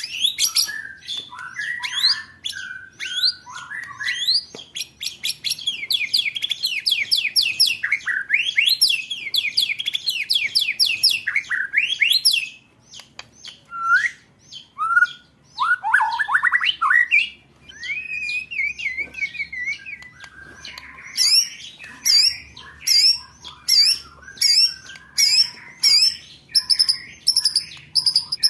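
Songbird song: long bursts of fast, rattling trills, then sparser whistles and gliding notes, and from about three-quarters in one sharp call repeated evenly about one and a half times a second.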